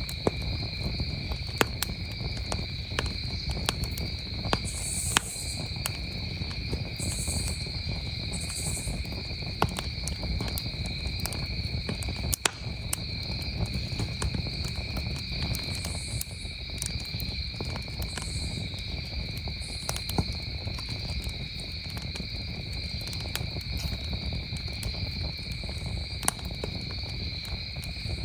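Campfire crackling with irregular sharp pops, a few of them louder, over a low rumble, while crickets trill steadily and without pause.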